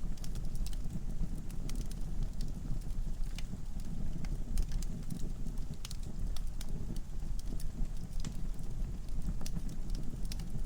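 Log fire crackling in a fireplace: a steady low rumble of the flames with frequent sharp, irregular pops and snaps from the burning wood.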